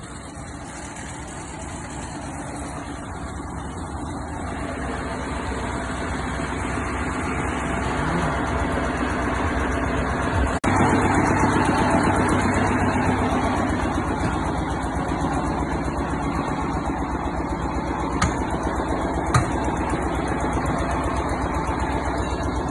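A vehicle engine running steadily, growing louder over the first ten seconds. There is a brief sudden break about ten seconds in, then it runs on evenly, with two short clicks near the end.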